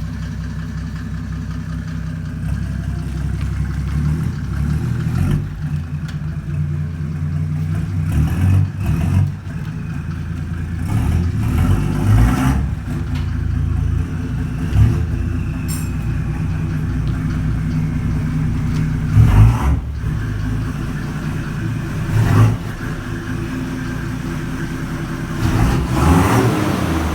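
Car exhaust with the engine idling, blipped several times to a brief rev and dropping back to idle.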